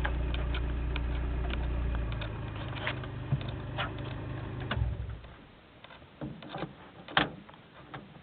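1993 Kia Pride's 1.3-litre four-cylinder engine idling, then dropping in pitch about two seconds in and running down to a stop about five seconds in: the engine being switched off. Light clicks and knocks come through it, with one sharper click near the end.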